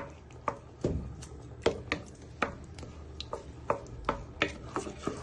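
A wooden spoon knocking against a pan while stirring a curry sauce and breaking down tomatoes: irregular clacks, two or three a second.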